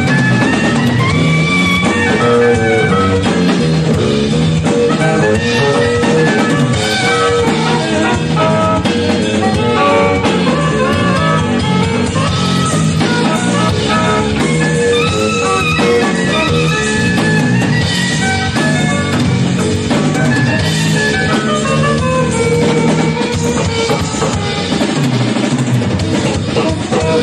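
A live band playing an instrumental jazz-style number: drum kit, electric bass, keyboards, saxophone and electric guitar.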